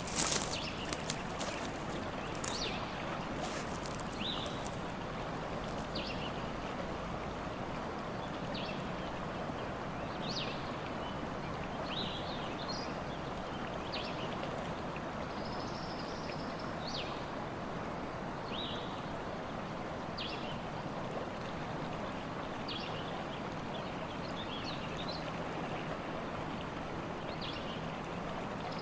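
Forest ambience: a steady rushing background noise, with short bird chirps scattered every second or two. A few sharp clicks fall in the first couple of seconds.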